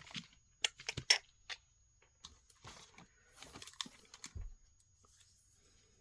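Jewelry being handled: a few light clicks and taps in the first second and a half, then soft rustling and a brief low thump.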